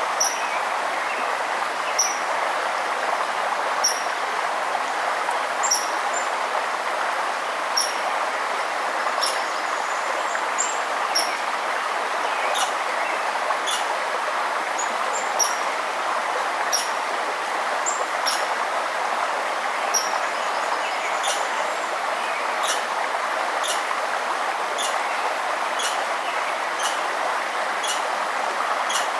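Steady rush of flowing river water, with a bird giving repeated short, high chirps every second or two that come more often in the second half.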